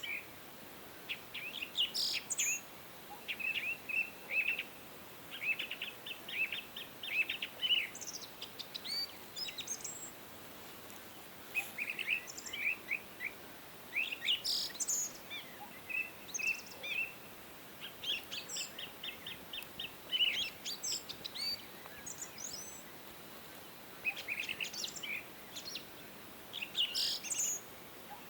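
Several songbirds singing and chirping, in clusters of quick, high chirps and trills with short gaps between them, over a faint steady hiss.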